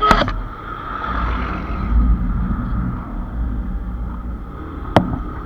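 Low rumble of a road vehicle, swelling about two seconds in, with a sharp knock near the start and another about five seconds in.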